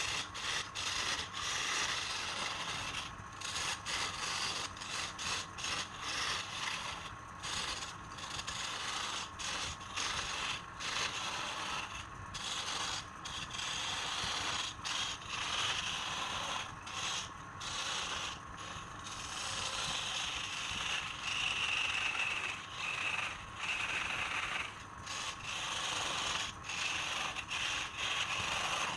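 Wood spinning on a woodturning lathe being worked with a tool or abrasive: a steady rasping scrape, broken by frequent short gaps.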